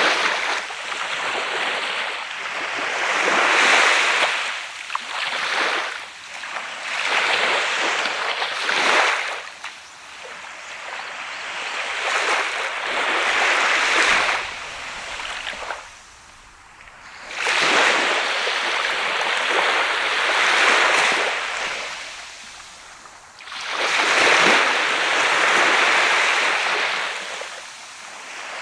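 Sea waves breaking and washing up a sand beach. The surf swells and fades in repeated surges every few seconds, with short quieter lulls between sets.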